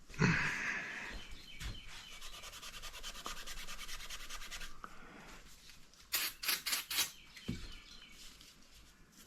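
Rubbing at a mark on an engine part to scrub it off: fast, steady back-and-forth strokes for several seconds, then a few sharp scrapes near the end.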